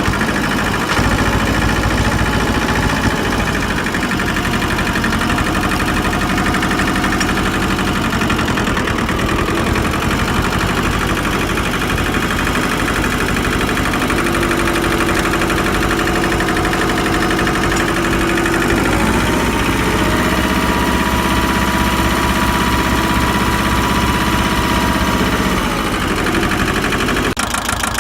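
Ford 1300 compact tractor's diesel engine running steadily, speeding up about two-thirds of the way through and settling back a few seconds later.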